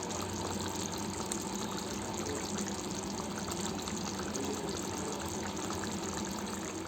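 Pot of chicken gravy curry simmering: a steady hiss with small bubbling pops.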